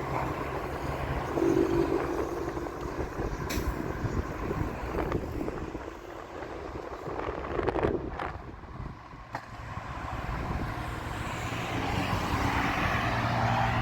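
Road traffic, cars and trucks going by, over a steady low rumble of wind on the microphone. It dips about halfway through and swells again near the end as another vehicle approaches.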